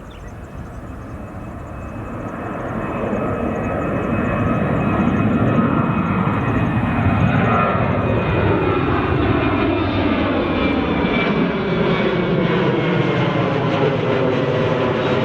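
Jet airliner's engines passing close by: the noise swells over the first few seconds and then stays loud, with a high engine whine over the rumble.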